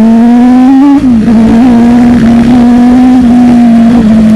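Sport motorcycle engine heard on board while riding, running at fairly steady revs. The note climbs a little, drops briefly about a second in as if shifting up, then holds nearly level.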